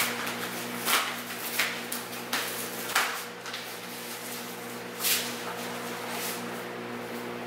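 A series of short rustling and knocking handling sounds, about seven in all, spread over the first two-thirds of the stretch, over a steady electrical hum.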